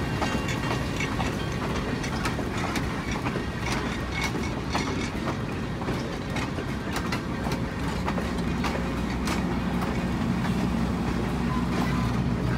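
Passenger train cars rolling past at steady speed: a continuous rumble from the wheels on the rails, with frequent clicks and clacks as the wheels cross rail joints. A low steady hum comes in about two-thirds of the way through.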